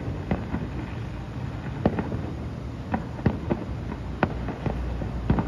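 Fireworks going off: about ten sharp bangs and pops at irregular intervals over a steady low rumble.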